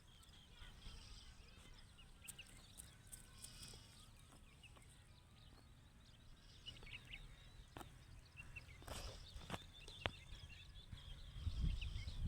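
A small pet parrot making faint, scattered chirps, with a few sharp taps or clicks in the second half and a low rumble rising near the end.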